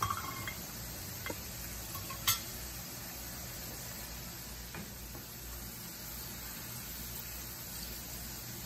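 Cut okra (bhindi) frying in hot oil in a pan: a steady sizzle, with a few light clicks, the sharpest a little after two seconds in.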